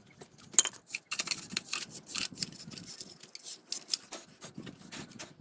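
Quick clicks and scraping of small metal parts being handled while a Pedrollo pump is reassembled.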